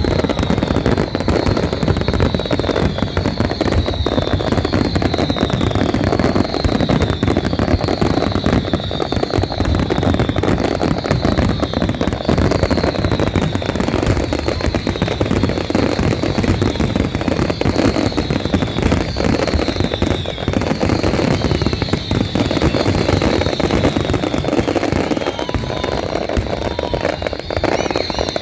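Large fireworks display: continuous dense crackling and bangs, with a high whistle falling in pitch that repeats about once a second.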